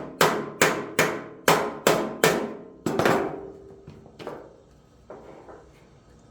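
Hammer blows on the sheet-metal rear shroud of an Austin Healey 100-4, a quick regular run of about two and a half strikes a second, each ringing briefly. About three seconds in they give way to a few lighter, spaced taps.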